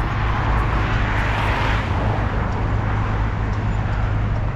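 Road traffic: a steady low rumble, with one vehicle's noise swelling to a peak about a second and a half in and then fading as it passes.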